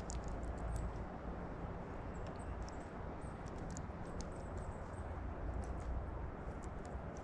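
Outdoor background: a steady low rumble with scattered faint, short high clicks and ticks.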